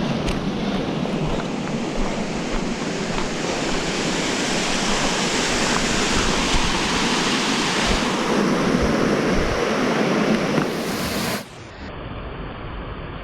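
Rushing water: a loud, steady, even hiss of flowing or falling water. About two seconds before the end it cuts off suddenly to a quieter, duller rush.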